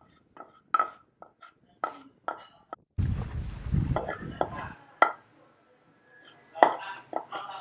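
Wooden stick knocking and scraping inside a half coconut shell, in a string of short irregular knocks, each with a brief hollow ring. A gust of wind hits the microphone about three seconds in.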